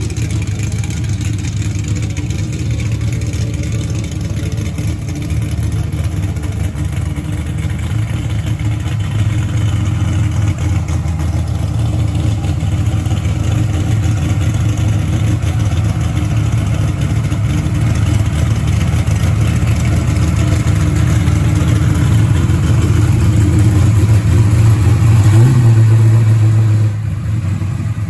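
A car engine running with a deep, steady low rumble that grows a little louder. Near the end it rises in pitch briefly, then drops away suddenly.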